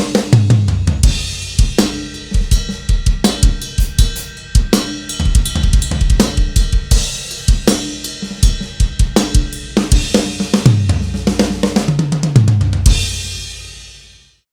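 Mapex Saturn V acoustic drum kit playing a busy rock groove of kick, snare, hi-hat and cymbals over bass guitar and guitar, with a full, roomy sound. About thirteen seconds in it ends on a final hit that rings out and fades away.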